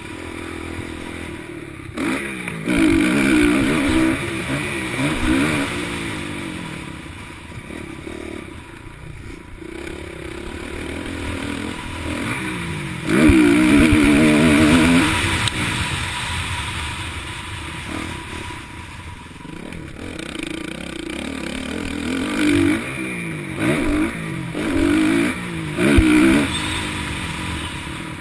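Motocross bike engines revving up and dropping off again and again, with a long loud surge around the middle and several short sharp blips of the throttle near the end.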